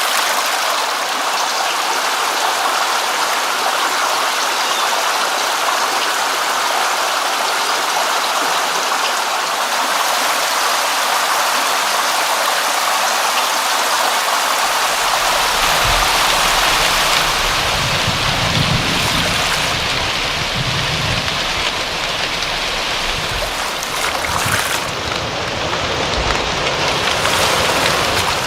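Steady rain, a dense even hiss of falling water. About halfway through a low rumble joins in underneath.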